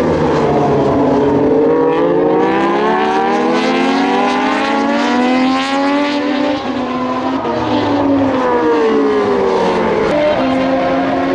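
Several Moto2 racing motorcycles with Triumph 765cc three-cylinder engines at high revs, their engine notes overlapping. Their pitch climbs over the first half as they accelerate, then falls away. Another bike's engine rises again near the end.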